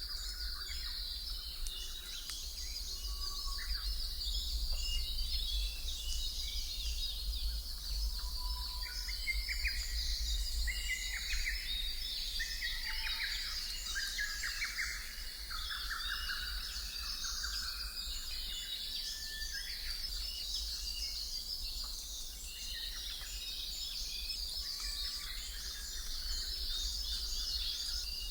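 Nature ambience of many birds chirping and singing, over a steady high trill and a constant low rumble.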